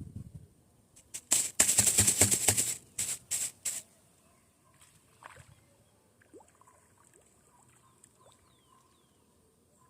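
Loud rustling and crunching for about two and a half seconds, starting about a second in, then faint short chirps over a steady high-pitched buzz.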